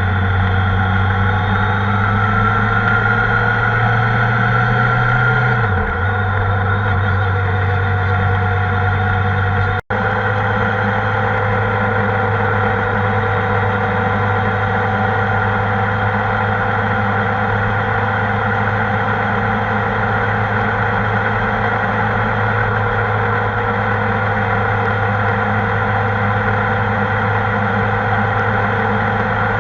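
Kawasaki ZR-7S motorcycle's air-cooled inline-four engine running under way, its pitch rising slowly, then falling sharply about six seconds in, as at a gear change, and then holding steady. The sound cuts out for an instant about ten seconds in.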